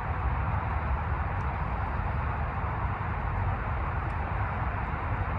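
Steady outdoor background noise: an even rush with a low rumble underneath and no distinct events, from the nearby highway traffic and the rain-swollen creek.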